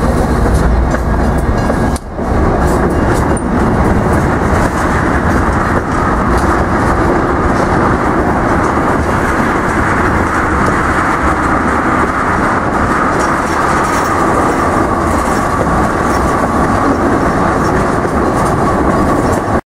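Freight train of tank cars and covered hoppers rolling past at close range, steel wheels rumbling and clicking on the rails. A steady high-pitched whine comes in about six seconds in and holds until the sound cuts off at the end.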